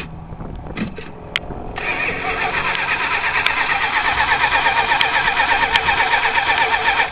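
Starter motor cranking the 1978 Chrysler Cordoba's engine in a steady, rhythmic churn for about five seconds, then stopping abruptly; the engine does not fire. It is a hard start with the accelerator pumped, the car refusing to start.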